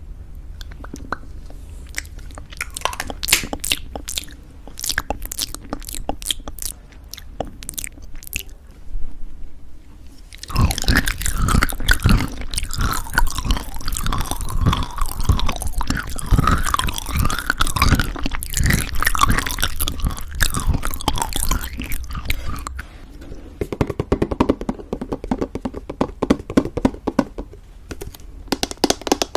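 Close-miked chewing of crunchy granola in thick yogurt. Scattered crisp crunches and clicks come first. A loud, dense run of crunching chewing starts about a third of the way in, then eases into softer chewing for the last quarter.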